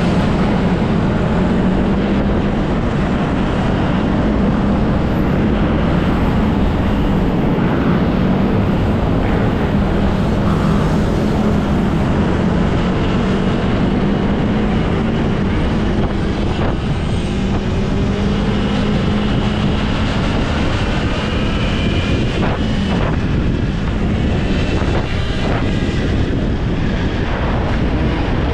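Off-road motorbike riding: a steady engine drone under heavy wind noise on the action-camera microphone, with faint rising and falling higher tones in the second half.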